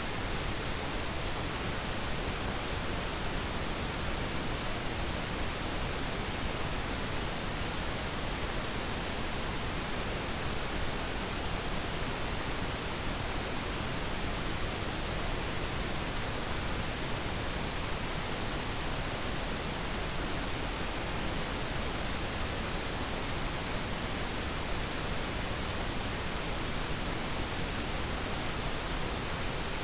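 Steady, unchanging pink noise: an even hiss across the whole range, with no other sound over it.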